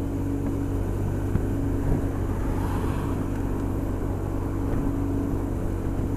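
Honda SH 300i scooter's single-cylinder engine running at a steady motorway cruise, with a constant drone and the rush of wind and road noise.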